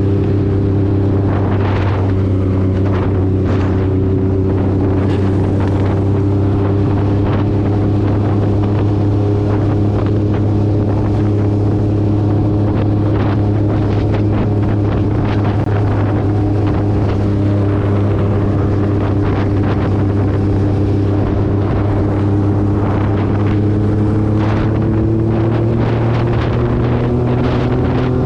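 Motorcycle engine running at a steady cruising speed, its pitch rising slightly near the end, with wind buffeting the microphone.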